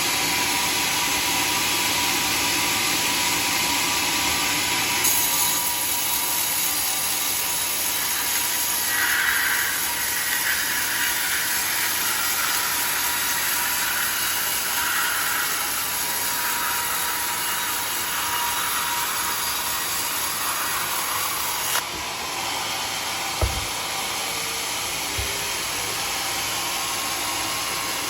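Sawmill saw cutting a teak log: a steady, loud noise that changes character about five seconds in and again about 22 seconds in. A single sharp knock follows a little after the second change.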